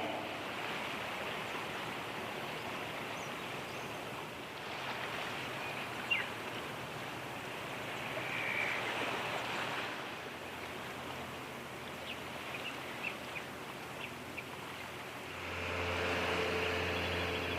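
Steady waterside noise of waves and wash with a few faint bird chirps. A tender boat's engine hum comes in near the end.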